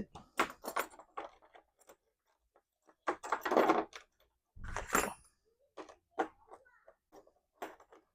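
Small metal D-ring hardware being handled and fitted: scattered light clicks and knocks, with two longer scraping sounds about halfway through.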